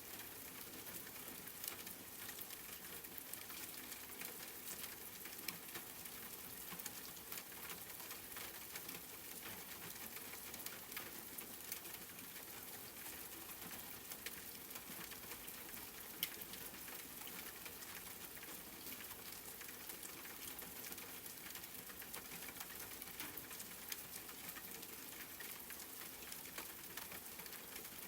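Steady rain pattering on a surface, a soft even hiss dotted with many small drop ticks, one a little sharper about sixteen seconds in.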